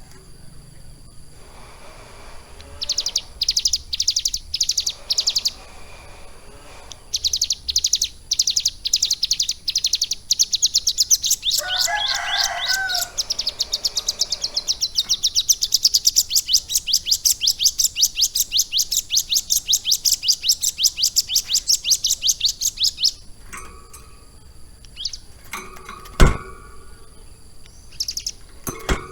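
A ciblek gunung (prinia) singing long, fast runs of sharp high notes, repeated many times a second with short pauses between phrases, and a brief lower chattering passage about twelve seconds in, part of its lovebird-filled song. A sharp click near the end is the loudest sound.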